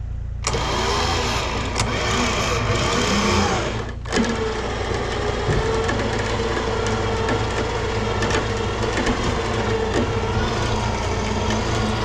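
A vehicle engine running with rising and falling revs. After a cut about four seconds in, it settles into a steadier drone.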